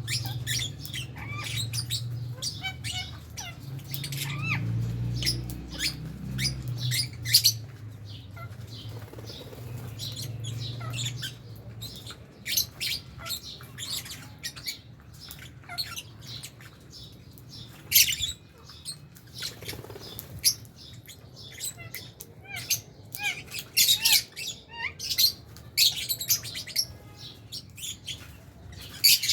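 A flock of lovebirds chirping and squawking, many short, sharp, high calls overlapping with no pause. A low hum sits under the calls for the first twelve seconds or so.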